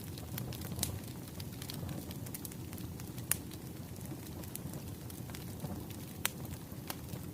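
Wood fire crackling: a steady low rumble of burning logs with sharp pops scattered through, the loudest about three and six seconds in.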